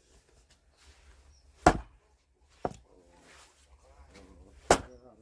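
Axe splitting firewood logs: two heavy chopping strikes about three seconds apart, with a lighter knock between them.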